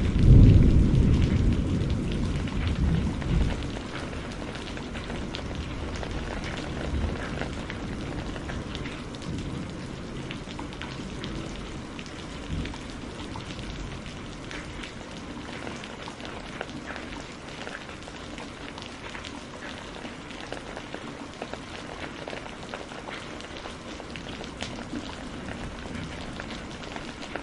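Steady rain hiss, with a low thunder rumble that fades out over the first few seconds. Small scattered pops and ticks run through the rain.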